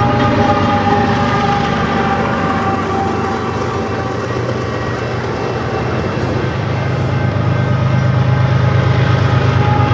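GE ES44 diesel locomotive passing at speed with its engine running under load, followed by loaded flatcars rolling over the rails. A steady low hum runs throughout with some steady higher tones; it eases slightly in the middle and grows louder again near the end.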